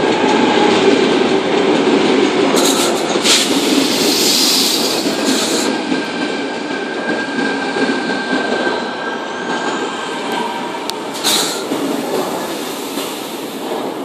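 Sydney Trains Tangara double-deck electric train rolling past at close range as it pulls into the platform. The wheels run on the rails under a steady rumble that slowly eases, with a thin wheel or brake squeal about halfway through.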